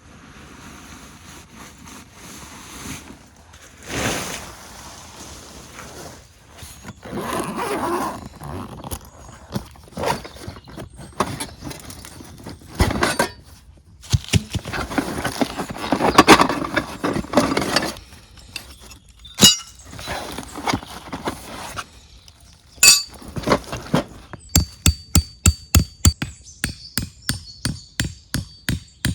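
Handling sounds of camp gear: rustling, knocks and clinks. About three-quarters of the way through, these give way to a steady run of sharp strikes, about three a second, as of chopping or hammering.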